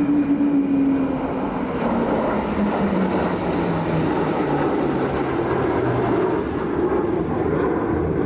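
Fighter jet flying past with loud, steady engine noise. A tone in it falls in pitch over about six seconds as the jet goes by.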